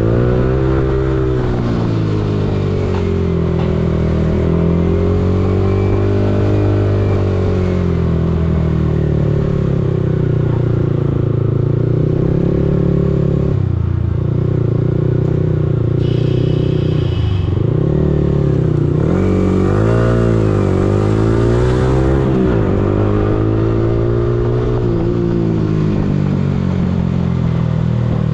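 Yamaha R15M's 155 cc single-cylinder engine running under way, its pitch rising and falling with the throttle, with brief drops at gear changes and a climb as it accelerates past the middle.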